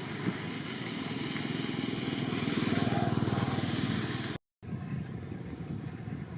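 A small engine running with a rapid, even pulse, growing louder toward the middle, cutting out abruptly about four and a half seconds in and resuming more quietly after a brief gap.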